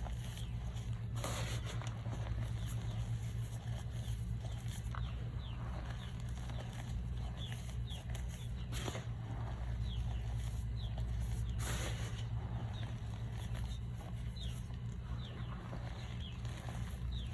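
Reformed block of gym chalk and baby powder being crushed by hand, with faint scattered crackles and a few sharper crunches, about a second in, around nine seconds and near twelve seconds. A steady low hum runs beneath it and is the loudest part of the sound.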